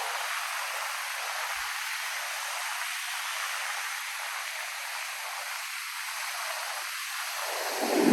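Steady hiss of ocean surf breaking on the beach. Near the end, a low rumble of wind on the microphone swells up.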